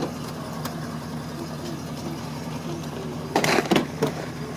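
Car engine idling steadily, heard from inside the car, with a short burst of rustling handling noise about three and a half seconds in.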